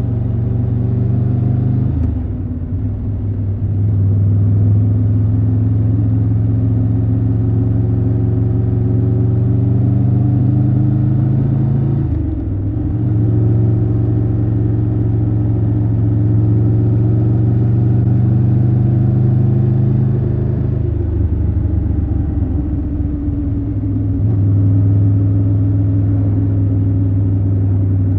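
Triumph Tiger 1200 Rally Pro's inline three-cylinder engine running at steady revs under the rider. The engine note dips briefly twice, about two seconds in and again around twelve seconds in, then eases off for a few seconds past the two-thirds mark before it picks up again.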